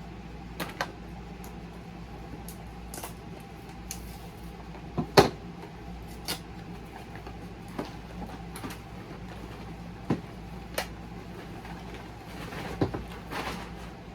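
Scattered clicks and crinkles of blind-bag toy packaging being handled and opened, over a steady low hum; the sharpest snap comes about five seconds in.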